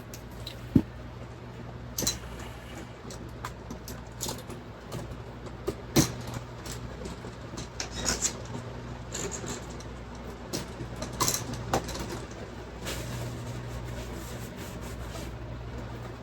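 Scattered small clicks, snips and rustles of hand tools working electrical wire, over a steady low hum.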